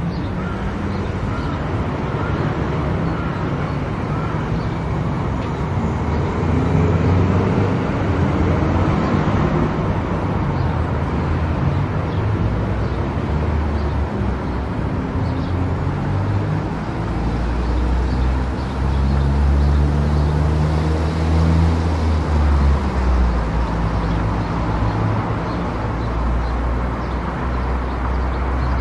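Car driving at highway speed: steady tyre and road noise with a low engine drone that slowly shifts in pitch, growing louder for a few seconds partway through.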